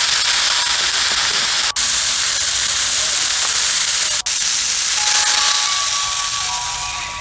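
Food sizzling in hot oil while being stir-fried in a pan: a loud, steady sizzle, broken twice by brief cuts, fading toward the end.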